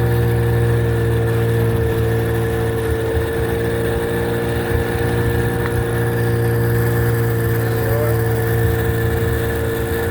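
A boat's inboard engine running at a steady speed under way: a constant drone with a low hum and a few steady higher tones.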